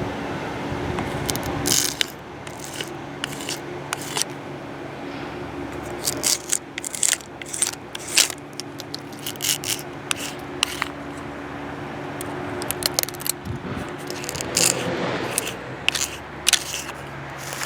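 Spotted lanternfly egg masses being scraped off tree bark with a flat scraping tool, in many short, irregular strokes. A steady low hum sits underneath and fades out about three-quarters of the way through.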